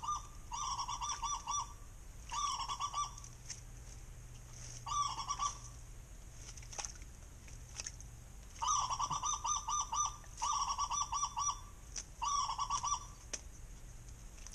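A bird calling in repeated short bursts of rapid, honk-like pulsed notes, about seven bursts with pauses of one to three seconds between them, and a few sharp clicks in the gaps.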